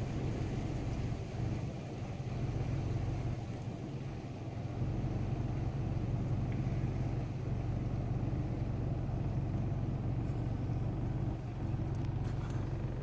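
Car engine running with a steady low hum, heard from inside the car's cabin.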